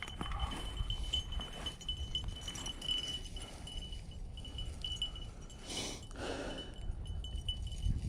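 Small bell on a bird dog's collar ringing unevenly as the dog moves through the field, over low wind and rumble, with a brief rustle of brush about six seconds in.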